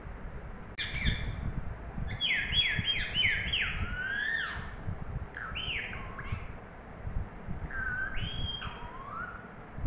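Pet green parrot chirping sleepily: short, high chirps that slide down in pitch, one about a second in, then a quick run of them, then a few more scattered groups.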